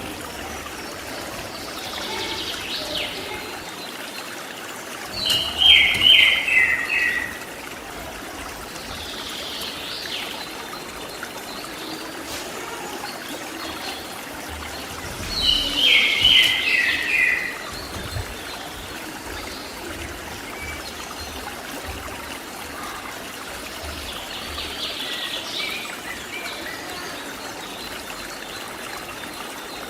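Cililin birdsong over a steadily running stream: two loud runs of about five short notes stepping down in pitch, about ten seconds apart, with softer calls in between.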